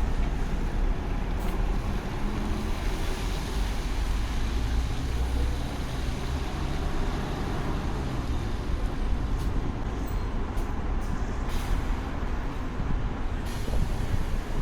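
Steady road and traffic noise heard from a road bike on wet streets: a low wind rumble on the microphone under the hiss of tyres and passing vehicles, with a few faint ticks in the second half.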